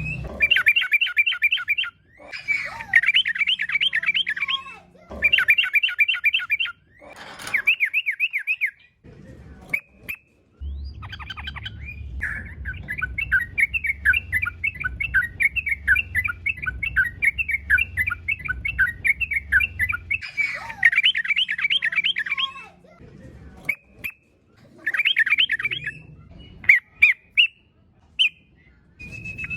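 Yellow-vented bulbul (trucukan) singing in rapid, chattering phrases, repeated in bursts of a second or two with a longer unbroken run in the middle. This is the vigorous 'gacor' fighting song.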